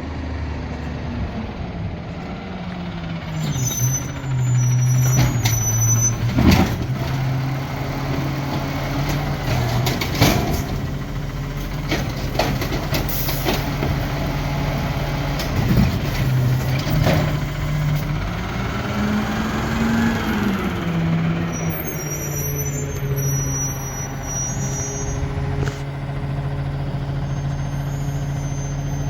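Amrep garbage truck's engine running, its revs rising and falling and climbing briefly about two-thirds of the way in, with several sharp clanks typical of the truck's arm dumping carts into the hopper.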